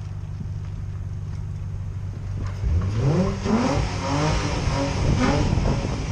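Car engine idling through its exhaust, then revved in several quick blips about three seconds in, each rising and falling back.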